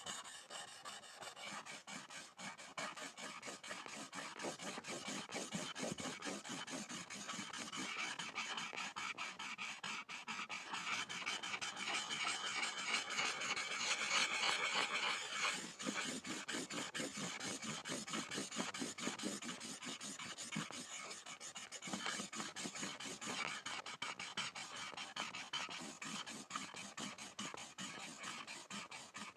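Pencil scribbling on a board: continuous rapid scratchy strokes, loudest for a few seconds around the middle.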